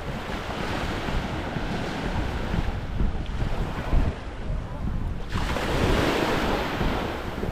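Small waves washing up on the shore, one swelling in about five seconds in, with wind buffeting the microphone.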